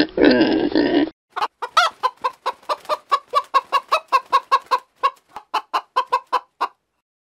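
A chicken clucking: a run of about twenty short, even clucks, roughly four a second, stopping shortly before the end. It is preceded by a loud, different sound in the first second that cuts off abruptly.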